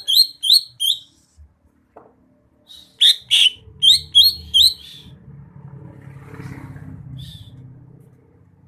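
Green leafbird (cucak hijau) singing: short, sharp, high chirps in quick runs of three or four, with two louder, fuller notes about three seconds in and a last single chirp near the end. A faint low rumble sits underneath in the second half.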